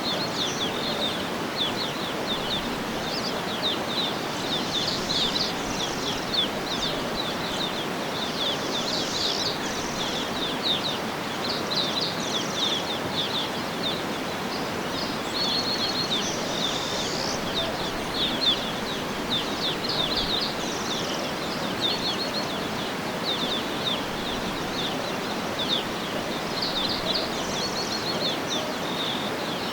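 Birds chirping and trilling almost without pause, many quick high calls overlapping, over a steady background hiss.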